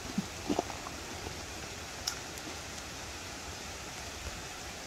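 Steady rain falling on a lake's surface, an even hiss, with a few faint scattered ticks.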